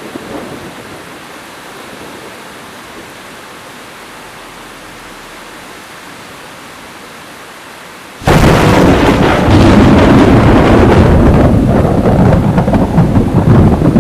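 Thunderstorm recording: a steady hiss of rain, then about eight seconds in a sudden, much louder burst of deep rumbling and crackling thunder and downpour that keeps going.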